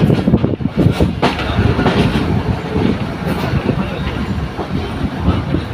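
Train running on the rails, its wheels clattering over the rail joints in a steady, loud rumble.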